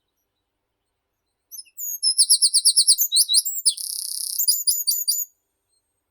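A meadow songbird sings one high-pitched song starting about a second and a half in: a quick run of about eight repeated descending notes, a brief buzzy trill, then a few more separate notes.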